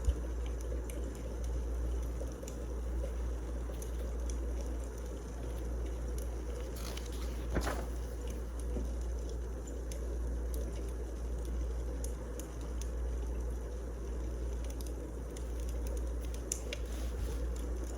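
Wood fire crackling steadily with scattered small pops over a low rumble, one louder crack about seven and a half seconds in.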